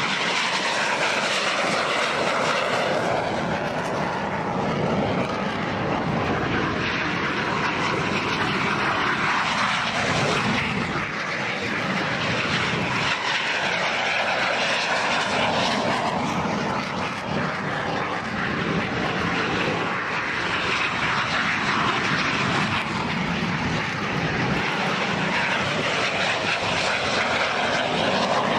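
Jet engines of Aermacchi MB-339 trainer aircraft, running loud and steady, the pitch gliding up and down as aircraft move past.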